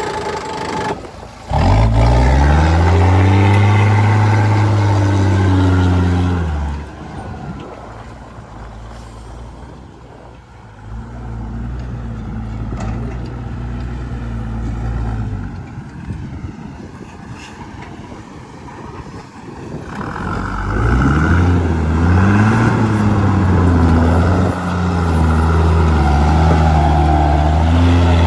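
Loaded dump truck's diesel engine working hard on a slippery track. It revs up, the pitch rising then falling about two seconds in, eases to a lower steady run, and revs up again about twenty seconds in.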